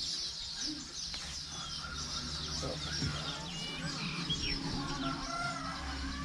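Many small birds chirping and whistling together in a dense, steady chorus of short, high calls, some rising and falling, over a low hum.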